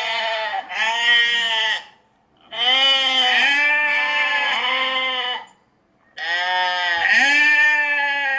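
Sheep bleating: four quavering bleats, two short ones back to back, then a long drawn-out bleat of about three seconds, then another near the end.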